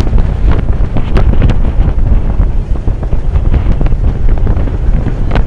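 Wind buffeting the microphone on a moving boat: a loud, uneven low rumble with scattered short knocks.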